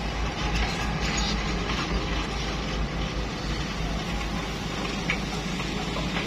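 Truck engine running steadily under a continuous rushing noise.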